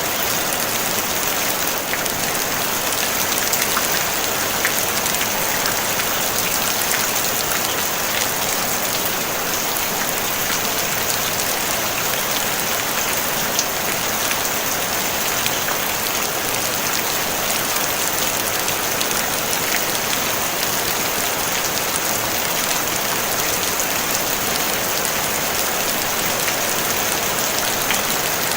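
Steady rain falling on a tin roof: a dense, even hiss of drops with fine individual pattering ticks throughout, no thunder.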